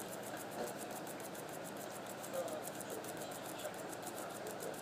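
A pet's claws scratching rapidly and steadily as it digs at the floor, a run of fine, even scratchy ticks.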